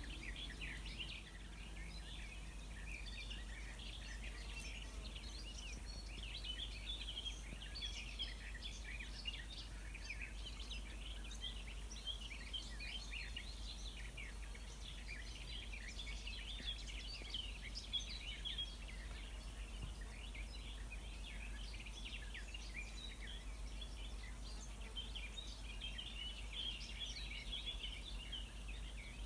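Several songbirds singing at once, a dense, continuous stream of short high chirps and trills, over a steady low rumble of breeze.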